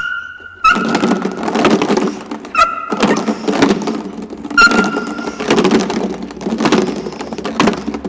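Dog gripping and tugging on a bicep bite sleeve: a steady rough scuffling and thudding of the struggle, with several short high squeals.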